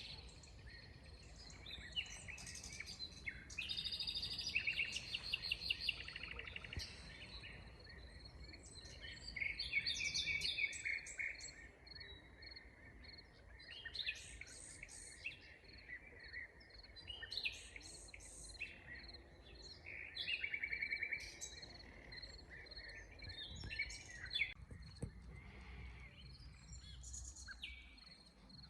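Forest birds singing and calling, several overlapping songs with rapid trills and quick repeated chirps coming in short phrases throughout, over a faint low rumble.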